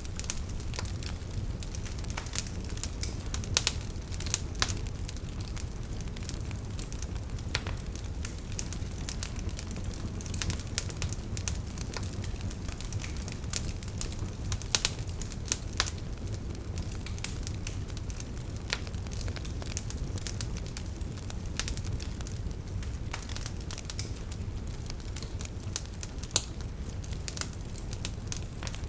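Wood fire burning, crackling and popping at random with a few sharper pops, over a steady low rumble of the flames.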